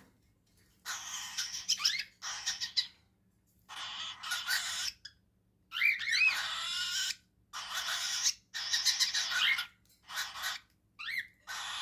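Cockatiel chicks giving harsh, raspy begging calls while feeding: about nine noisy bursts, each up to a second or so long, with short pauses between, some carrying a brief whistled note.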